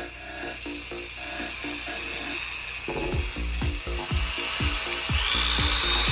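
Makita 6302 electric drill running, spinning a knotted string tied to it; its whine rises in pitch about five seconds in. Background music with a steady drum beat comes in about three seconds in.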